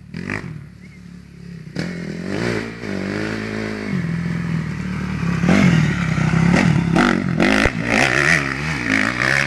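Motocross bike engine revving up and down as the bike works through corners. It gets louder about halfway in, with some clattering knocks near the end.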